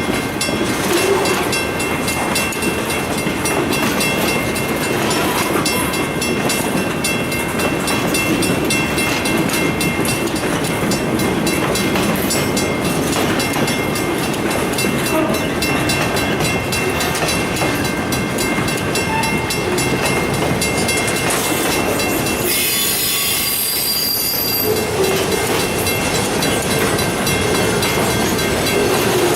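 Freight train's cars rolling past on the rails, a steady rumble and clatter of wheels, with a brief higher-pitched stretch about 23 seconds in.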